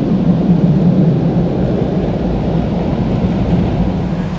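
Steady, loud, low rumbling noise of automatic car wash machinery heard from inside the car.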